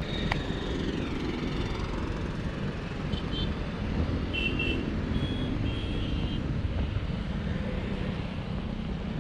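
Motorcycle engine running under way, with steady wind and road noise. A few short high-pitched beeps come through between about three and six seconds in.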